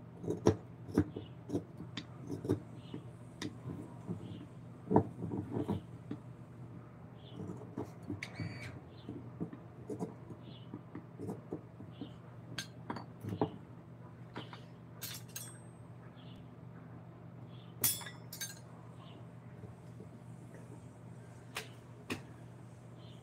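Irregular sharp taps and clinks of hand tools working on wood, denser in the first few seconds, with a couple of brighter metallic clinks later, over a steady low hum.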